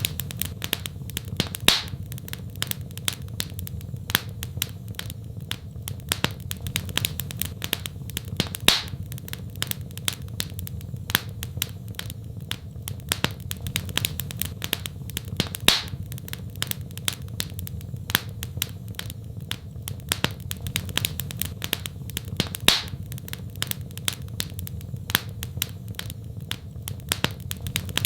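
Fireplace fire crackling: dense small crackles over a steady low rumble, with a louder pop about every seven seconds.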